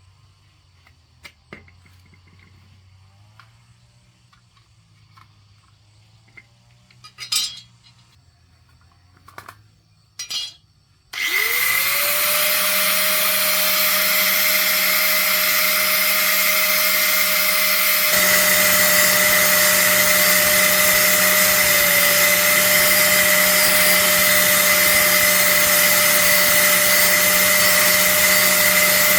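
A few light knocks and clicks, then about eleven seconds in an electric motor switches on. It spins up in a quick rising whine and keeps running loud and steady, with a high whine above it.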